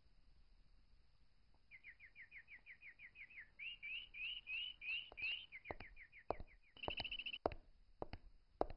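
Small bird chirping faintly in quick runs of short high notes, about seven a second, starting a couple of seconds in; a few sharp clicks near the end.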